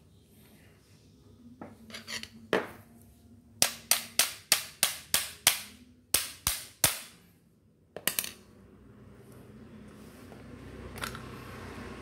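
Hammer tapping on metal drill parts: a quick run of seven sharp strikes at about three a second, a short pause, then three more, with a few lighter knocks before and after.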